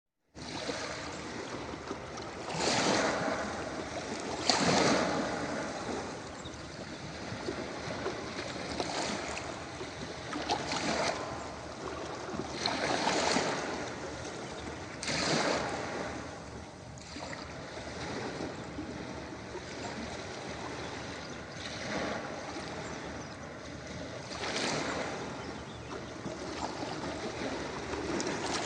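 Ocean surf breaking on a beach: a steady wash of water with a louder wave crash every few seconds.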